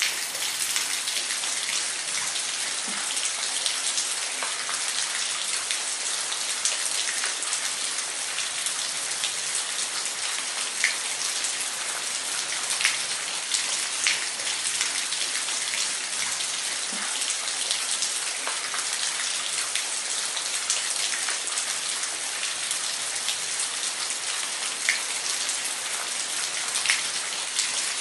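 Waterfall: a steady rush of falling water, a constant hiss with small splashes scattered through it.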